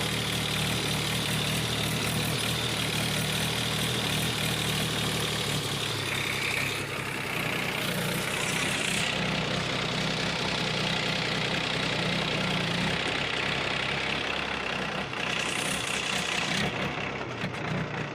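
Powertrac Euro 50 tractor's diesel engine running steadily.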